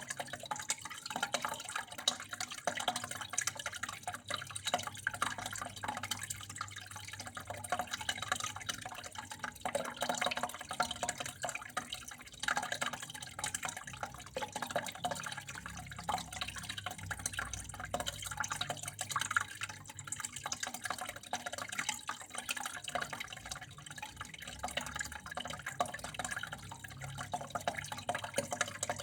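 Water flowing and trickling steadily, with many small drips and splashes falling irregularly over a faint low hum.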